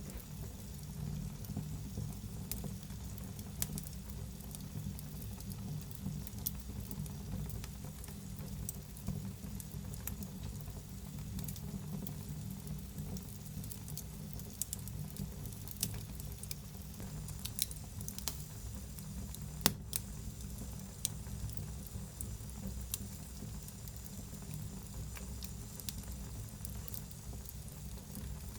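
Wood fire burning in a fireplace: a low steady rumble of flames with frequent irregular crackles and small pops, one sharper pop about two-thirds of the way through.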